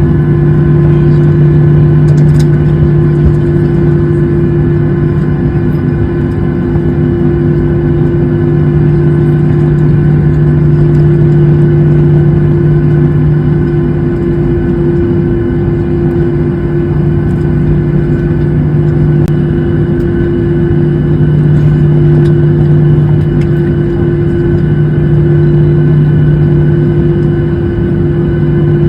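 Loud, steady engine drone with a constant low hum that holds level, with no revving up or down.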